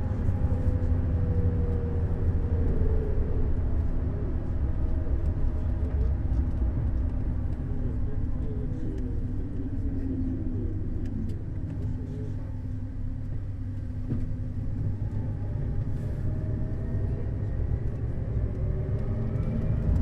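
Neoplan Skyliner N 1122/3C double-decker coach under way: a steady low rumble of engine and road, with a faint engine note that drifts slowly in pitch. The sound eases a little around the middle and grows again near the end.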